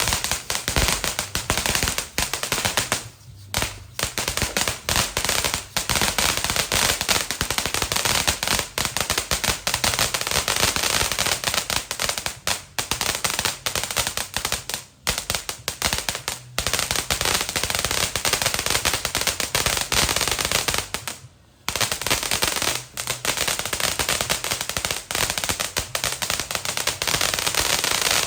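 Golden Rooster V7 fountain firework spraying, with a dense, rapid crackle that keeps going, broken by a few brief lulls.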